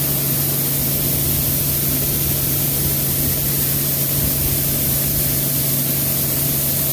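Combine harvester running while threshing soybeans, heard from inside the cab: a steady low hum under an even hiss.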